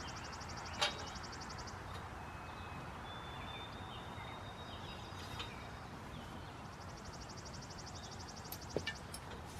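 A songbird's rapid, high, dry trill lasting about two and a half seconds, heard twice, with a few thin whistled notes between and a couple of faint clicks.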